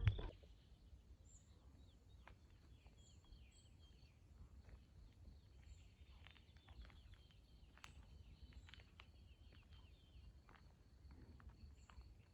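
Faint birdsong: many short, falling chirps and thin high peeps from small birds, scattered throughout, over a low, quiet background rumble.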